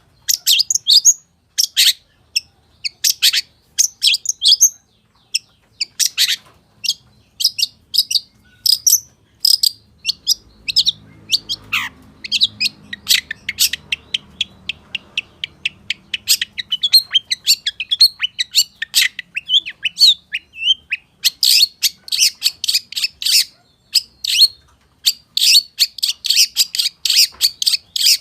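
Long-tailed shrike (pentet/cendet) singing continuously: a rapid, varied string of short, sharp chirps and whistled notes packed with imitated calls of other birds, becoming a denser, faster run in the last third.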